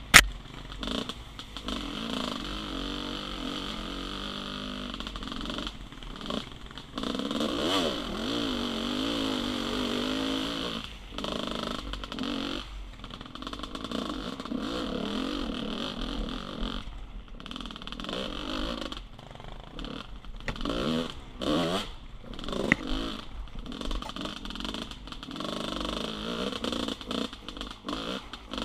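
GasGas 300 two-stroke enduro bike engine lugging at low revs in third gear, its note rising and falling with the throttle and dropping away briefly several times. A sharp knock comes right at the start.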